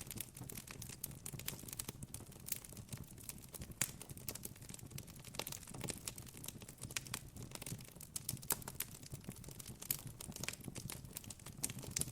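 Wood campfire crackling: irregular sharp pops and snaps, several a second and varying in strength, over a faint steady low rumble.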